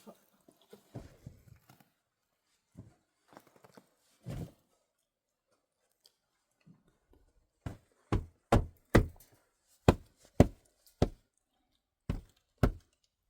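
A series of sharp knocks or thuds: a few scattered ones, then a run of about nine in quick succession, roughly two a second, in the second half.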